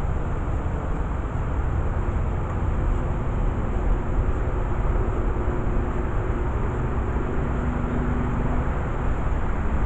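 Steady low rumble of outdoor background noise, with faint hums that come and go.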